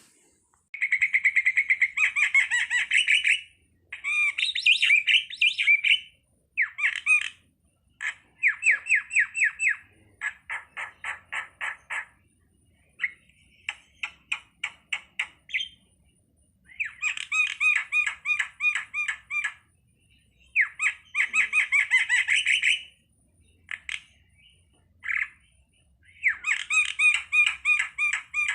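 A starling (jalak) calling in repeated phrases of rapid, evenly spaced notes, each phrase lasting a second or three, with short pauses between.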